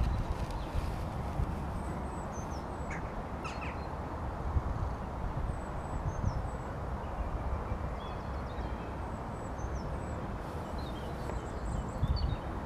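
Wind buffeting the microphone with uneven low rumbles over a steady outdoor hiss, while birds give scattered short high chirps and a few harsher calls.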